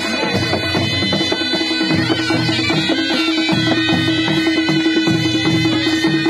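Naumati baja, a Nepali traditional band, playing: a reedy shehnai-type melody over a steady held note, with drums and cymbals keeping a regular beat.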